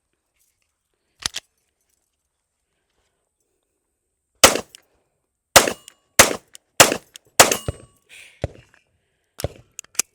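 SIG P365X Macro 9mm pistol firing five shots in quick succession, starting about four and a half seconds in, followed by a few quieter sharp cracks. A single sharp click comes about a second in.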